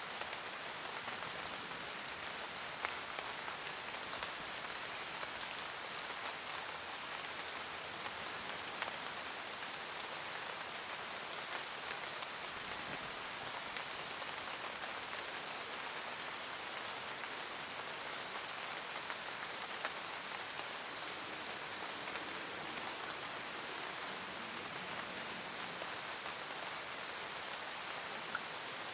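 Steady rain falling, a dense even hiss of drops with scattered individual drop ticks.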